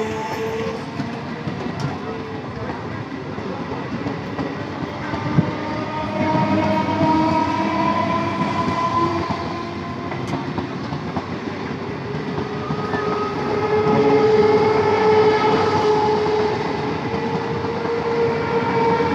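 Electric multiple-unit (EMU) local train running past at close range: a steady rumble and clatter of wheels on rail, with sustained tones that drift slowly in pitch and swell loudest about two-thirds of the way through. A single sharp knock sounds about five seconds in.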